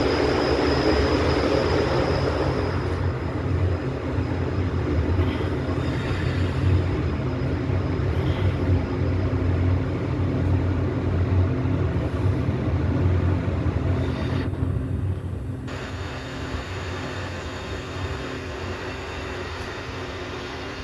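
Steady low mechanical rumble and hum, easing somewhat about sixteen seconds in.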